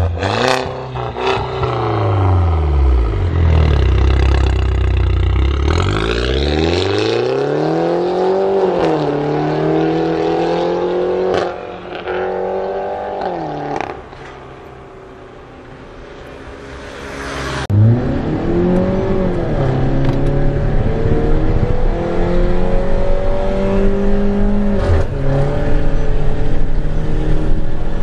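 Exhaust of a Peugeot RCZ with the 1.6 THP turbocharged four-cylinder engine, breathing through an aftermarket downpipe and full exhaust system. The engine revs, its pitch falling and rising several times. It drops quieter for a few seconds past the middle, then comes back suddenly and loud and runs on at steadier revs.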